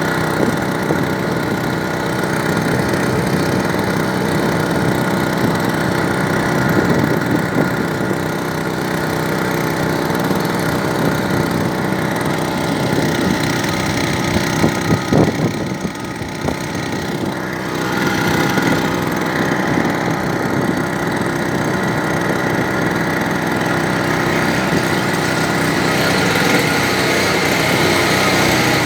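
Brush-cutter engine rigged as a boat motor, running steadily and driving the boat along. Its sound drops briefly a little past halfway, then picks back up.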